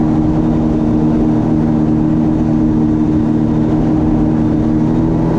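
Jet ski engine running at a steady cruising speed, with water and wind rushing under it. The pitch holds level and sags slightly near the end.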